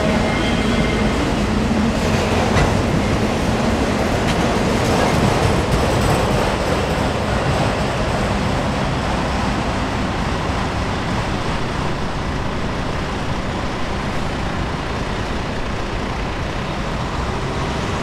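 Freight train autorack cars rolling past on steel wheels and rails, a steady rumble and rattle with occasional clicks. It fades gradually as the end of the train passes and draws away.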